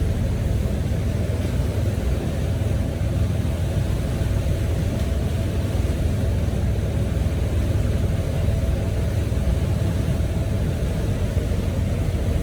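Motorboat underway, its engines running steadily under a continuous low rumbling rush, with a faint steady whine above it.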